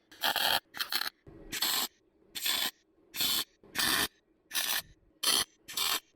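A hand tool scraped or rasped against metal in about nine short, regular strokes, a little over one a second, with a brief gap after each stroke.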